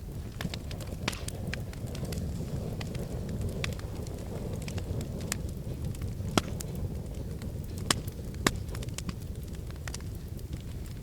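Wood fire in a fireplace burning with a low steady rumble and frequent crackles, snaps and pops, three sharper pops standing out in the second half.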